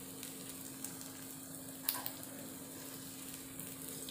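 Batter-coated boiled egg halves shallow-frying in oil, sizzling steadily with small crackles. A single sharp tap comes about two seconds in, as the steel spoon turns an egg in the pan.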